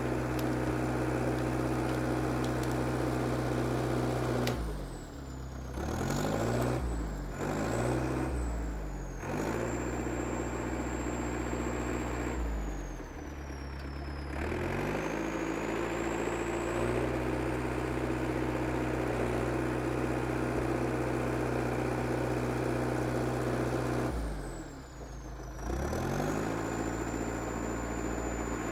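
IH TD8E crawler bulldozer's diesel engine running steadily, with a thin high whine above it. Its revs sag and climb back three times, about four to nine seconds in, around the middle and near the end, as the dozer takes load clearing the trail.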